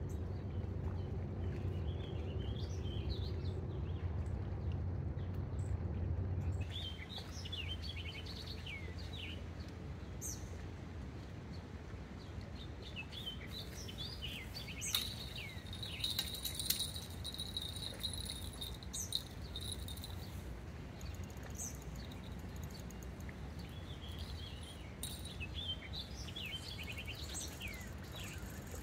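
Small birds chirping and calling again and again over a steady low rumble, which is louder for the first six seconds. For a few seconds around the middle a thin, steady high tone joins them.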